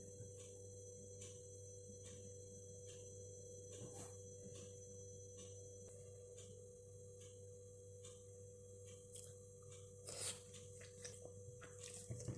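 Quiet room tone: a steady low electrical hum with faint, evenly spaced ticks about twice a second. About ten seconds in, and again near the end, a few louder clicks and clinks break in.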